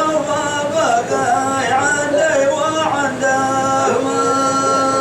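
Hadrami dan singing: a man's voice in a wavering, ornamented melody that settles into long held notes from about three seconds in.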